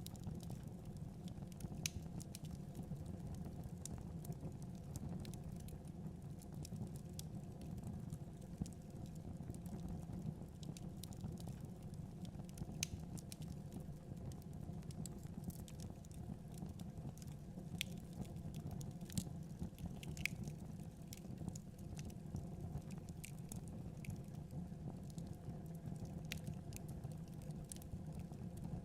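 Wood fire burning in a fireplace: a steady low rumble of the flames with scattered crackles and pops from the burning logs, a few of them sharper than the rest.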